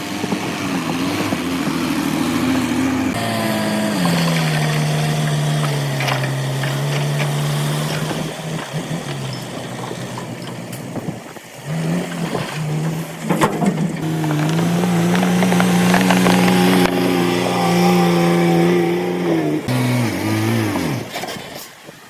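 Heavy diesel engines of construction machinery running and revving, the engine note shifting abruptly several times and falling in pitch near the end.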